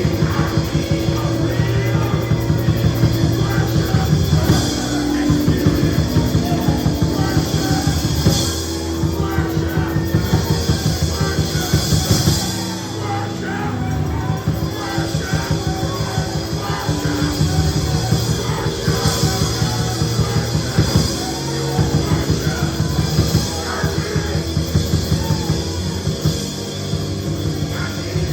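Live church band playing loud up-tempo music, with a fast, steady drum beat under sustained bass and keyboard notes.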